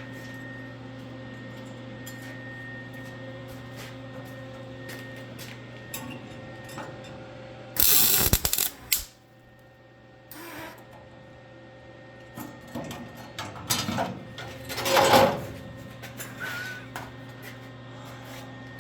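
Welder humming steadily, with a loud crackling burst of arc welding lasting about a second near the middle and several shorter, irregular bursts of welding and metal clatter later on.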